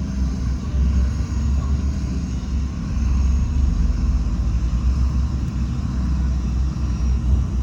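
Heavy diesel earthmoving machinery, a bulldozer or dump truck, running with a steady low rumble.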